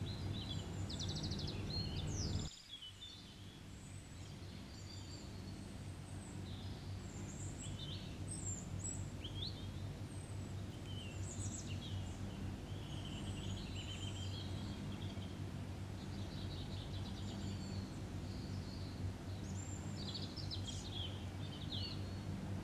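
Small birds chirping in the background: short high calls scattered throughout, over a steady low hum. The overall level drops slightly about two and a half seconds in.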